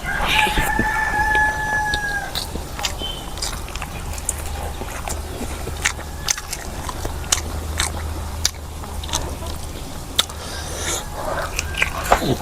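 A rooster crowing once, one long held call of about two seconds that falls slightly at its end. After it come scattered short clicks of chewing and biting, over a steady low hum.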